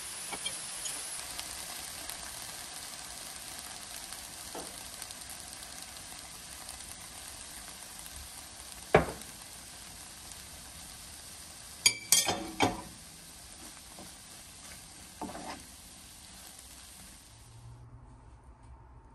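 Cuttlefish and vegetables sizzling in a frying pan while being stir-fried, with a few sharp knocks of a utensil against the pan. The sizzle stops near the end.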